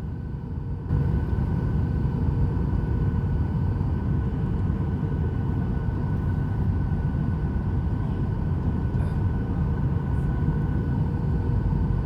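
Steady low rumble of a vehicle under way, heard from inside, with a faint even whine over it. It steps up in loudness about a second in and then holds steady.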